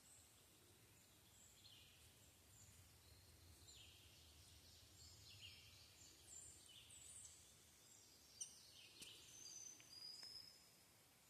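Faint birdsong: many short chirps and whistled notes, several sliding down in pitch, from more than one bird, over a faint low rumble.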